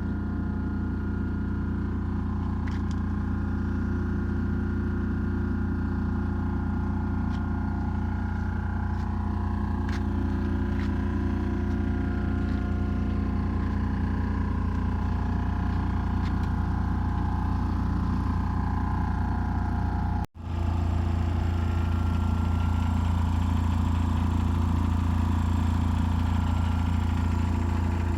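Suzuki DF250 V6 outboard engine running steadily, with two of its six cylinders (No.3 and No.5) dead. The sound breaks off for an instant about twenty seconds in, then carries on slightly louder.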